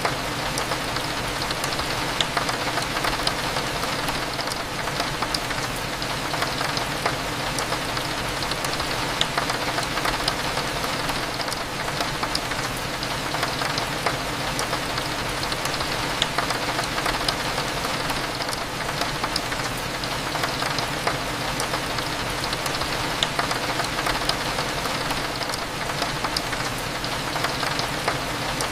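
Steady rain on a window, with scattered sharp drop ticks over a constant low hum of cafe background.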